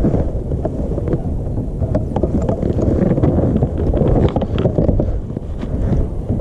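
Wind buffeting the microphone, a loud low rumble, with scattered faint ticks.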